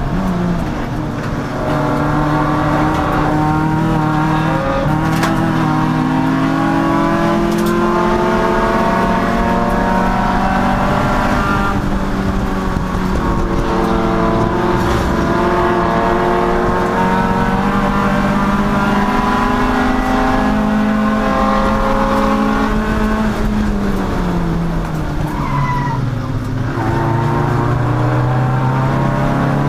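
Race car engine pulling hard, its pitch climbing slowly along a straight. It then drops sharply as the car brakes and downshifts, and climbs again out of the corner. A brief tyre squeal comes during the braking, near the end.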